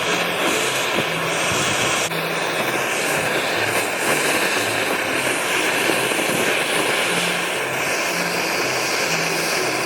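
Kioritz SRE2350G brush cutter's small two-stroke engine running steadily at speed.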